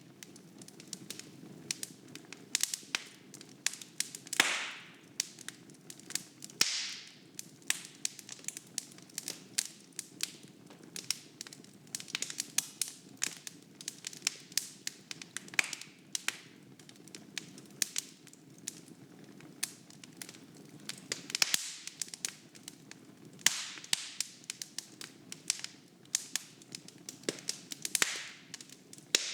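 Wood fire burning in a fireplace: a steady low rumble of flame with constant crackling and sharp pops of burning logs, and a handful of louder hissing pops.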